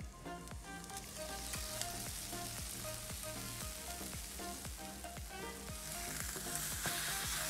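Eggs, spinach and onion frying in a nonstick pan with a steady sizzle that swells about a second in and grows louder again near the end, over soft background music.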